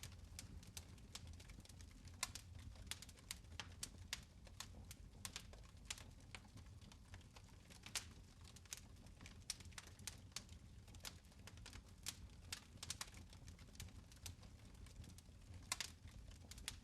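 Fireplace fire crackling softly: irregular sharp pops and ticks, several a second, over a steady low rumble.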